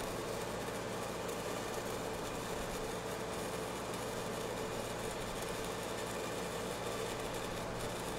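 Steady crackle and hiss of a stick-welding arc running an E6010 rod downhill, with a steady hum underneath.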